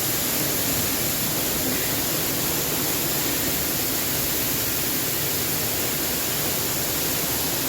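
A waterfall rushing in a steady, unbroken wash of water noise.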